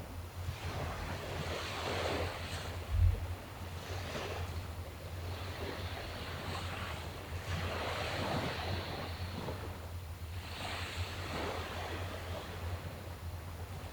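Sea waves washing onto the shore, swelling and fading every couple of seconds, over a steady low wind rumble on the microphone. A brief low thump about three seconds in is the loudest moment.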